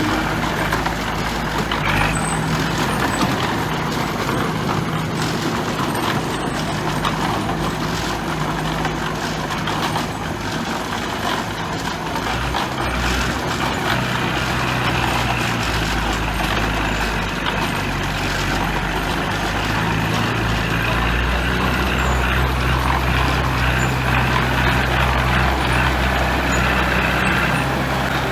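Heavy diesel earthmoving machinery at work, a bulldozer and dump trucks, with engines running steadily and their note shifting now and then. The low engine sound grows louder about two-thirds of the way through.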